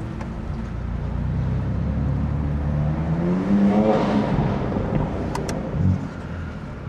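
BMW F80 M3's twin-turbo inline-six accelerating, its pitch climbing for a couple of seconds before easing off. Near the end come two sharp clicks and a short low thump.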